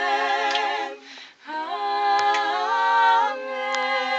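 A small vocal group singing a cappella in close harmony on long held chords. There is a brief break for breath about a second in, then a new sustained chord that shifts near the end.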